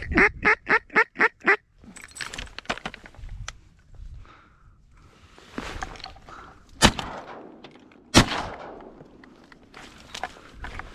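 A quick run of about eight duck quacks, then two shotgun shots about a second and a half apart.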